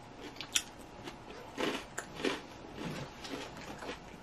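Close-up chewing of a mouthful of salad and smoked salmon: soft, irregular crunching bites, with one sharp click about half a second in.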